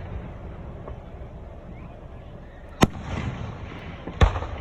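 Aerial fireworks shells bursting: two sharp bangs, one just under three seconds in and one just over a second later, each followed by a rumbling echo and crackle, over the fading rumble of earlier bursts.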